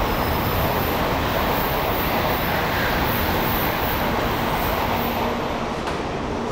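Shinkansen bullet train running along the platform, a loud steady rushing noise that thins out near the end.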